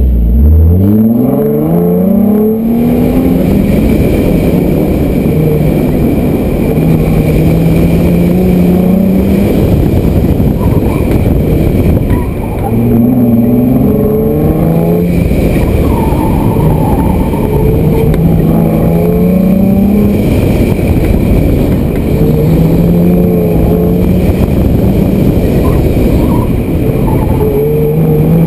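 Nissan 350Z's 3.5-litre V6 launched hard, its revs climbing steeply for the first two seconds, then rising and falling again and again as the car accelerates and slows between cones. A constant heavy rush of noise runs underneath.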